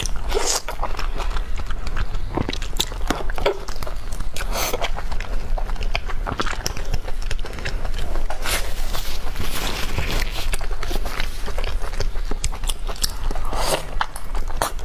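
Close-miked eating sounds: wet biting, chewing and smacking on a large chili-oil-coated sausage, full of small sticky clicks and crackles, with louder clusters of bites every few seconds.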